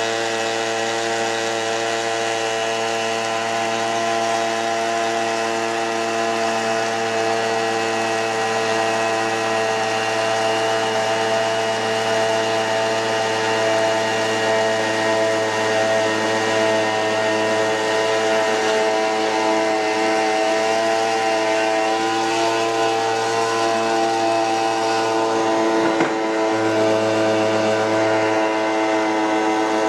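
Small petrol brushcutter engine, converted into a homemade outboard boat motor, running steadily at a fairly constant speed, with slight drifts in pitch and a brief tick a little before the end.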